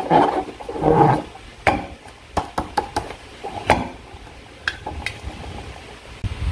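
Slime being squeezed and worked by hand. Wet squelches come in the first second or so, then sharp sticky clicks and crackles follow, scattered through the rest.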